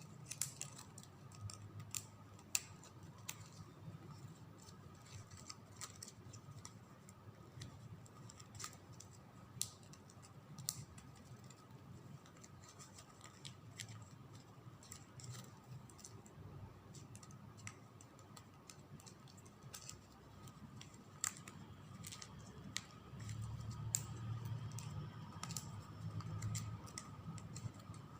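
Quiet close-up handling of ribbon: strands being threaded and tucked into the folds of a ribbon flower, with scattered light clicks and soft rustles. A faint low hum grows a little louder near the end.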